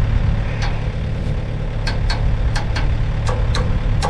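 Komatsu mini excavator's engine idling steadily, with a string of short, sharp clicks or ticks scattered over it.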